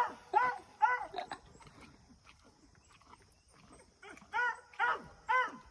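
A dog whining in short, high, rising-and-falling whimpers, a quick run of them, a pause, then another run.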